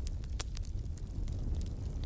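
Wood fire crackling in a fireplace: scattered small snaps over a steady low rumble, with one sharp pop about half a second in.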